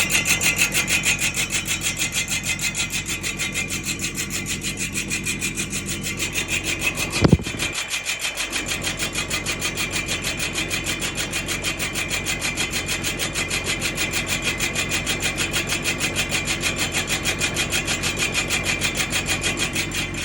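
Rhythmic grinding from a Nissan Patrol's brake drum as the wheel turns, pulsing about four to five times a second, with a single sharp knock about seven seconds in.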